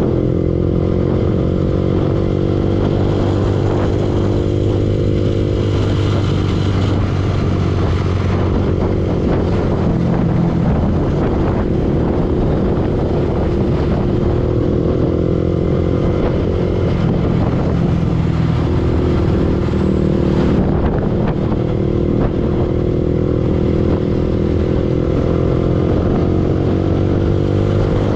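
Yamaha R15 single-cylinder four-stroke motorcycle engine running under way, its note dipping twice as the throttle eases and then picking up again, over road and wind noise.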